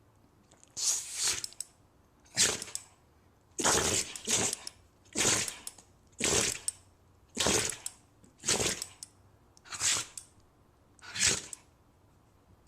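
A dog sneezing over and over: about ten sneezes, one roughly every second, with quiet gaps between.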